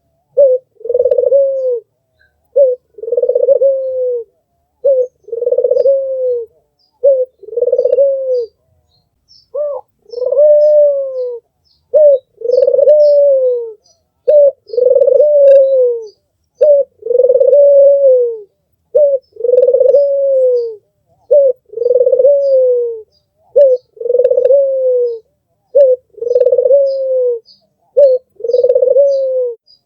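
Albino Barbary dove (puter) cooing over and over, about one call every two seconds: each a short note followed by a longer coo that arches and falls. Faint high chirps of small birds sit in the background.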